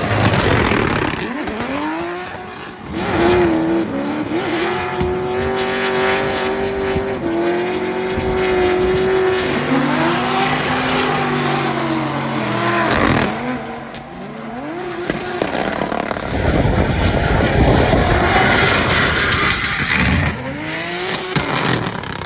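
Turbocharged 2JZ straight-six of a Nissan Silvia S15 drift car with anti-lag, revving hard through a drift. Its revs are held steady for several seconds, then drop and climb again, with tyres squealing. A loud stretch of tyre and exhaust noise comes near the end.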